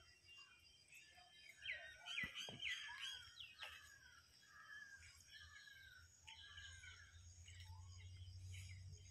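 Faint birdsong: several birds chirping with short, quick notes, busiest about two to three seconds in. A low rumble builds near the end.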